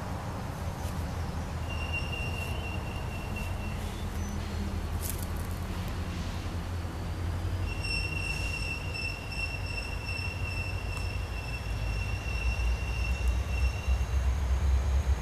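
Diesel locomotive approaching, its low engine rumble growing louder over the last few seconds. High, steady squeals of wheels on the curved track come briefly about two seconds in and again for several seconds from about the middle.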